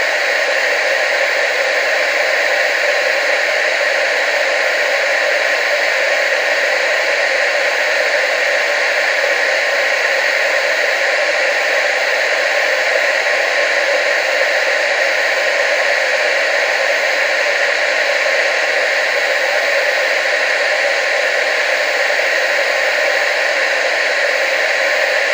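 Television static: a steady hiss of noise, strongest in the middle and upper range with little bass, unchanging throughout.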